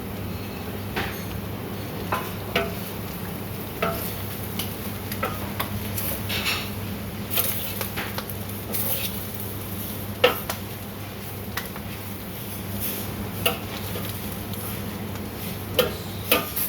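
Metal spatula scraping and knocking against a pan while fried rice with chicken and vegetables is stirred and tossed, with a light sizzle. Sharp knocks come at irregular intervals over a steady low hum.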